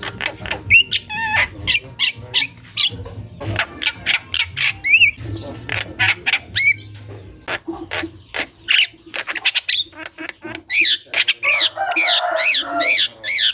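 Javan myna singing without pause: a fast jumble of harsh squawks, chatters and whistled notes. From about ten seconds in, it breaks into a run of repeated rising-and-falling whistles. A low hum runs under the first half.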